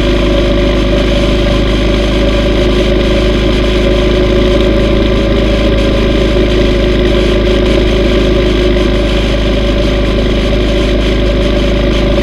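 Yamaha V Star 950's air-cooled V-twin engine running at a steady, unchanging speed while the motorcycle is ridden.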